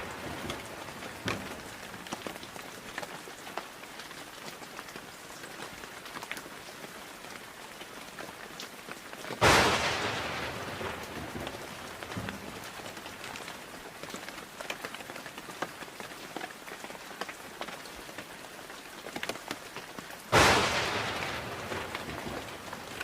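Steady rain falling, with individual drops ticking. Two sudden loud cracks of close thunder break through, about halfway through and near the end, each fading over a second or two.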